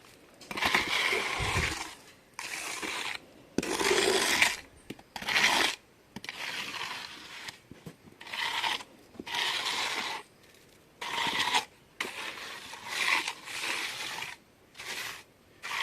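Wet mortar being scraped and smoothed with a hand tool in a series of rough scraping strokes, about one a second, with short pauses between them.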